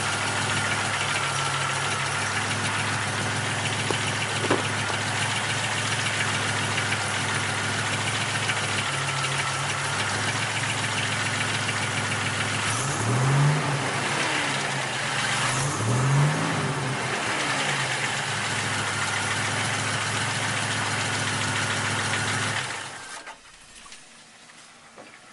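Buick Grand National's rebuilt turbocharged 3.8 L V6 idling with a weird knocking noise, blipped briefly twice about halfway, then shut off near the end. Pulling the spark plug wires one at a time made no difference to the noise, and the owner fears a wrist pin. A short thump comes right at the end.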